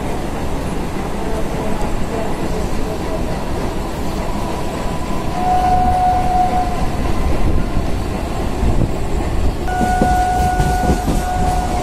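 EMU local train running at speed, with a steady rumble and clatter of wheels on rail. A train horn sounds twice: a short blast about five seconds in, and a longer one from about ten seconds in with a brief break.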